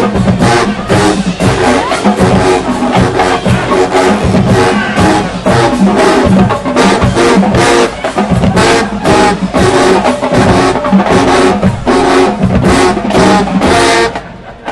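Marching band playing: loud brass chords over a rhythmic drumline beat, breaking off suddenly near the end.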